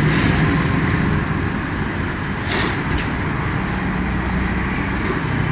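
Steady motor-vehicle and traffic noise with a low engine hum, and a brief hiss about two and a half seconds in.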